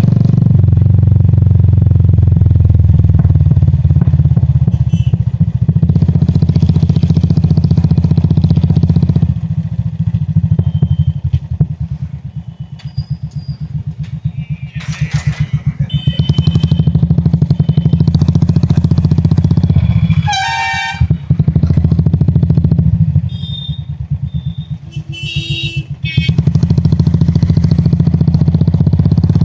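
Royal Enfield Classic 350's air-cooled single-cylinder engine thumping steadily under way, easing off twice. Vehicle horns sound several times over it, the loudest about two-thirds of the way in.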